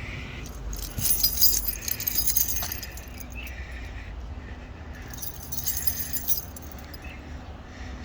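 Two bursts of high-pitched jingling rattle, each lasting a second or two, like keys or small hard pieces being shaken.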